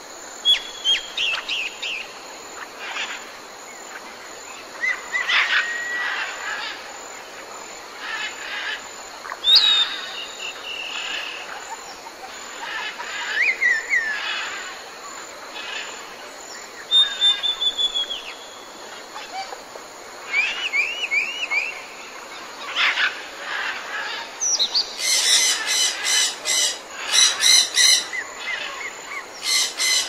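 Several wild birds chirping and singing in short, varied phrases over a steady background hiss. Near the end comes a run of harsh, rapidly repeated calls.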